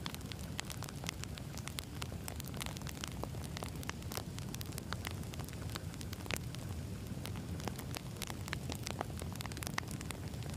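Wood campfire burning: the logs crackle with many sharp, irregular pops over a low, steady rush of flame.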